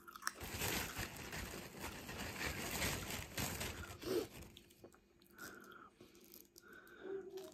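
A crisp prawn cracker being bitten and crunched, with dense crunching for about four seconds, then softer chewing.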